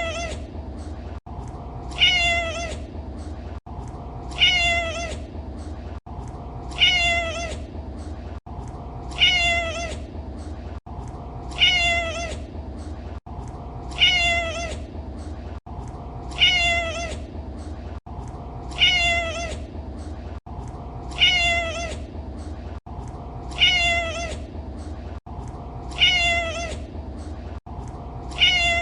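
A domestic cat meowing over and over: one short, falling meow about every two and a half seconds, the identical call repeated each time as a loop. A steady low hum runs underneath.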